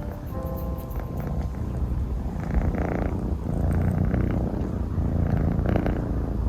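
A kitten purring close to the microphone: a steady low rumble that swells every second or two with its breathing.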